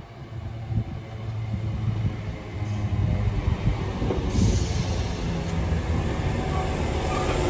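Electric multiple-unit passenger train running into the platform alongside, its wheel and motor noise on the rails growing steadily louder as the carriages draw level, with a sharp rise in hiss about four seconds in.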